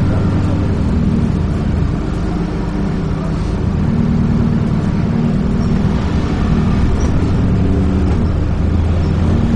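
Dennis Trident 2 double-decker bus under way, heard from inside: a steady low engine drone over road noise, its pitch shifting slightly as it drives.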